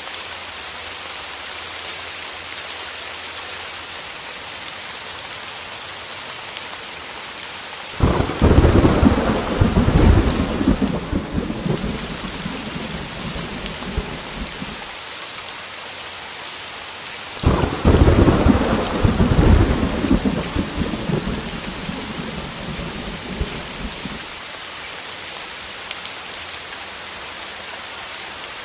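Heavy rain falling steadily, with two rolls of thunder: each starts suddenly, the first about eight seconds in and the second about ten seconds later, and rumbles low for several seconds before fading back under the rain.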